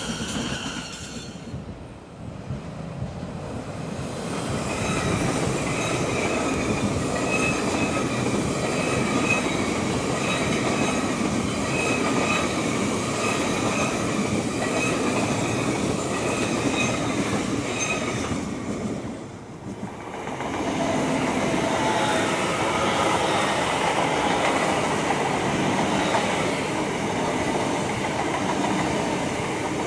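A Great Western Railway Intercity Express Train running past close by: a loud, steady rumble of wheels on rail with a faint high whine. The sound dips briefly about two-thirds of the way through, then picks up again. In the first couple of seconds the sound of a departing Elizabeth line train fades away.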